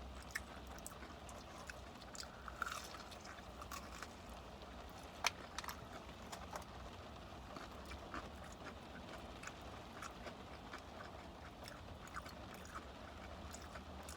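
Close-up eating of crispy fried chicken: scattered crunches of breading and wet mouth clicks while chewing, with one sharper crunch about five seconds in, over a low steady hum.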